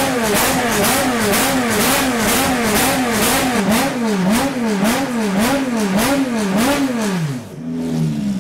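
Lamborghini Essenza SCV12 race car's naturally aspirated V12, stationary and blipped hard over and over, about two revs a second, each rise and fall sharp and crackly. Near the end the revving stops and the engine falls back to a steady idle.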